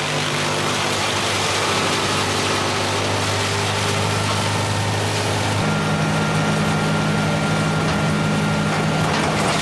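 Brush chipper's engine running steadily; its pitch steps up a little past halfway through.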